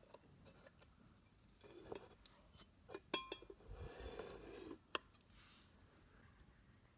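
Faint, scattered clicks and light clinks of small plastic enclosure containers and lids being handled.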